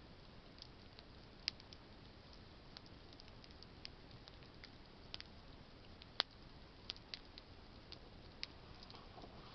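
Campfire of burning branches crackling: faint irregular snaps and pops over a soft steady hiss, with two louder pops about a second and a half in and about six seconds in.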